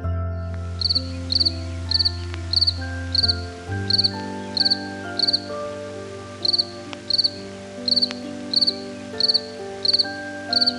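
Cricket chirping: short pulsed chirps repeating evenly, about two a second, over background music with held notes.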